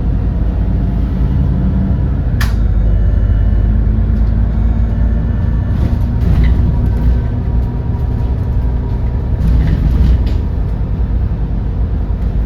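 An Edison Motors Smart 110G city bus's GX12P natural-gas engine running steadily under way, with one sharp knock about two and a half seconds in.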